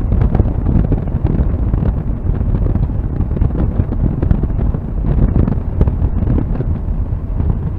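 Mazda MX-5 NC's 2.0-litre four-cylinder engine and aftermarket exhaust running at speed on track, heard from inside the cabin. A steady low rumble of wind buffeting the microphone runs through it.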